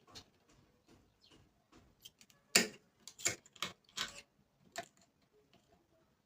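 Light clicks and taps of a soldering iron and small parts being worked against a speaker's wire terminal while unsoldering a lead. The clicks are sparse at first, then a sharper run of about five comes between two and a half and five seconds in.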